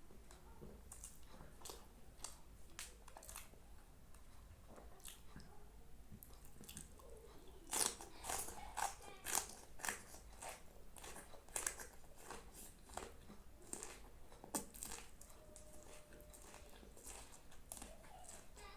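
A person chewing and biting food close to the microphone: a run of short crisp clicks and crunches, busiest in the middle stretch.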